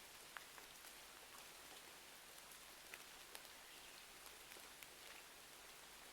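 Faint steady rain hiss with a crackling wood fire: scattered sharp pops, about one a second.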